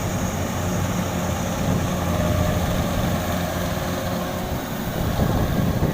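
Diesel engine of a Kubota DC93 rice combine harvester running steadily with a low hum.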